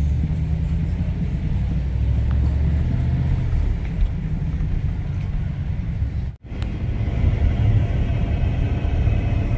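Steady low rumble of a car on the move. The sound cuts out abruptly for a moment about six seconds in.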